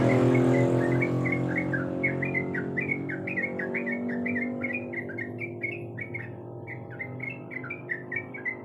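Yellow-vented bulbul (trucukan) singing a fast, continuous chattering run of short warbled notes. Under it a low engine hum, loud at first, fades away.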